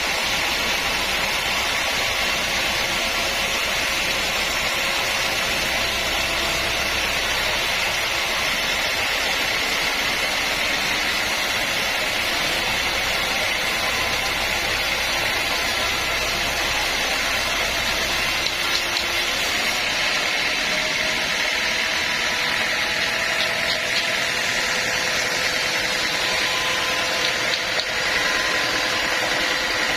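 Sawmill machinery running steadily, a constant mechanical drone with a few light knocks in the last third.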